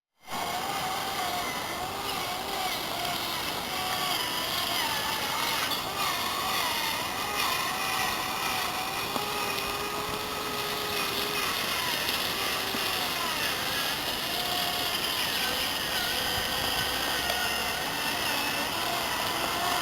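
Home-built RC trial truck driving: the whine of its electric motor and gearbox wavers up and down in pitch with the throttle over a steady rushing noise.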